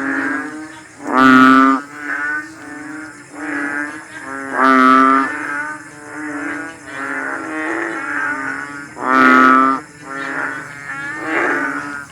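A frog calling: three loud, nasal, pitched calls about four seconds apart, each about half a second long, with softer shorter calls repeating in between.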